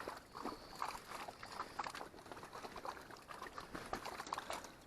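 Faint running water in a shallow stream, a patter of many small irregular trickles and splashes.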